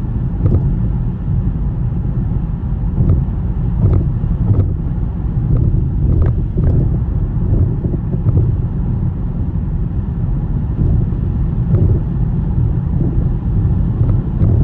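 Car driving on a snowy road in a snowstorm: a steady low rumble of tyres and engine, with irregular faint knocks now and then.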